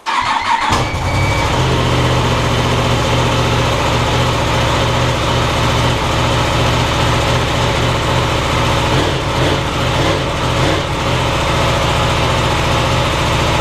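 Cold start of a 2016 Yamaha R1M's crossplane inline-four on its stock exhaust: the engine fires suddenly and settles within a second into a loud, steady idle.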